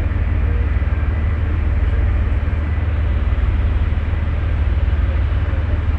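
Steady low rumble aboard a Balearia ferry under way.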